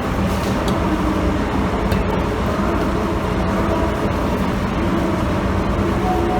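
DE10 diesel-hydraulic locomotive's diesel engine idling with a steady low drone and hum.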